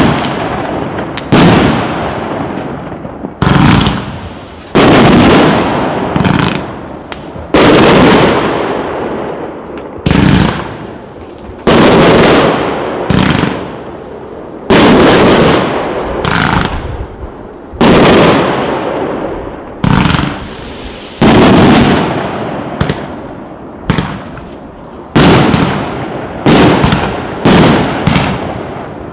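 A 1.2-inch, 304-shot consumer fireworks cake firing: a string of loud bursts about every second and a half, each sharp at the start and trailing off before the next shot.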